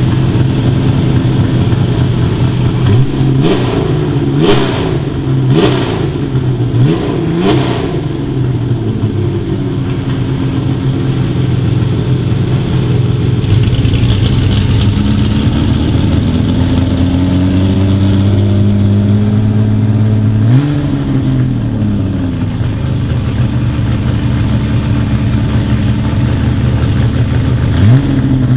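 BMW E9 3.0 CSL Alpina race car's straight-six idling as it warms up. There is a quick run of sharp throttle blips in the first eight seconds, a slow climb in revs through the middle that ends in another sharp blip about twenty seconds in, and one more blip near the end.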